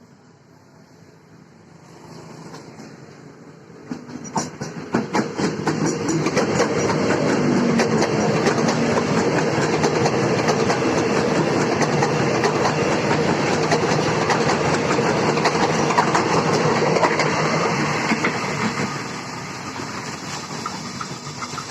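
Electric airport train passing close by at speed. It grows louder about 4 seconds in, with sharp clatter of wheels over rail joints, holds a loud steady rumble, then eases off near the end.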